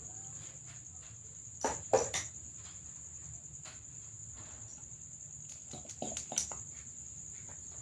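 A steady high-pitched insect chirring, with a few short knocks about two seconds in and again around six seconds.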